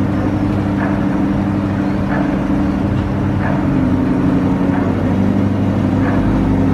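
A Chevrolet C8 Corvette's 6.2-litre V8 idling steadily after start-up.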